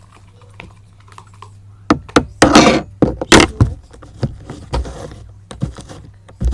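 Irregular knocks and clicks of objects being handled, with two short scraping or rustling bursts in the middle, over a low steady hum.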